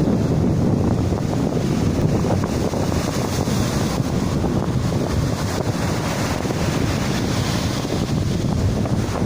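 Steady rushing of a rain-swollen river in flood, with wind buffeting the microphone.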